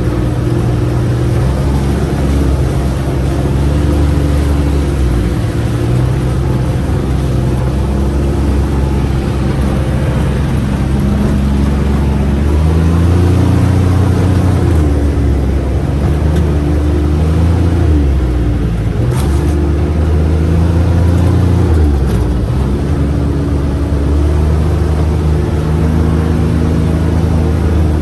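Utility terrain vehicle engine running under way, its pitch stepping up and down every second or two as the throttle changes, with a steady rush of wind and road noise.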